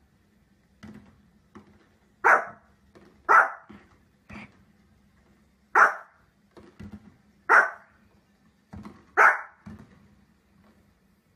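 A small dog, a Pomeranian, barking in single sharp barks: five loud ones spaced about one to two seconds apart, with quieter short sounds between them.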